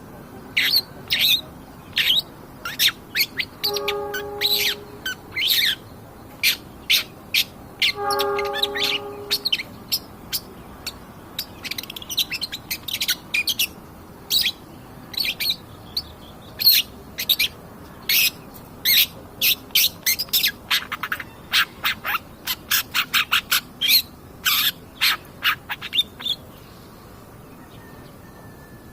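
Long-tailed shrike (cendet) singing a rapid, chattering run of short, sharp, high notes, with two longer, lower harsh calls about four and eight seconds in. The song thins out near the end.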